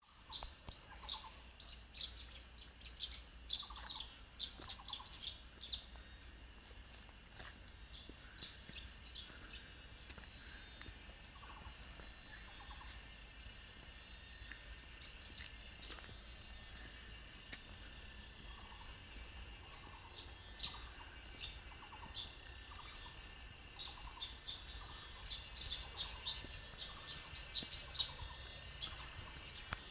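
Several birds chirping and calling, with many short high chirps throughout, busiest near the start and near the end, and a series of soft lower calls repeated in between. A steady high insect hum runs underneath.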